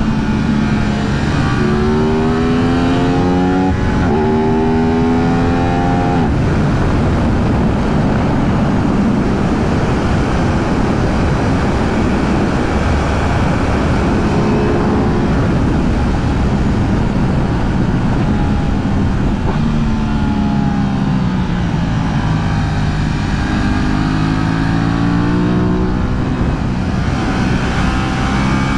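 Aprilia 660 parallel-twin motorcycle engine accelerating hard, its note climbing and dropping back at two quick upshifts in the first few seconds. Heavy wind rush on the microphone then dominates at speed, until the engine note dips and climbs again near the end.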